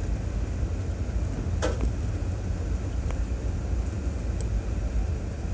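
2006 Chevrolet Trailblazer driving on a dirt trail: a steady low rumble, with a sharp knock about one and a half seconds in and fainter clicks later on.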